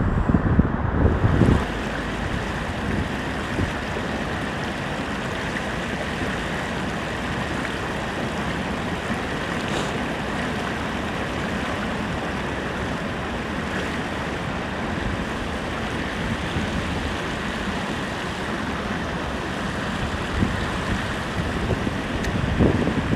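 Steady rushing outdoor noise, with wind buffeting the microphone for the first second or so.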